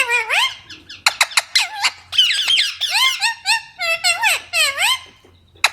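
Green parrot calling: a rapid run of short, shrill squawks, each rising and falling in pitch, with a brief pause near the end.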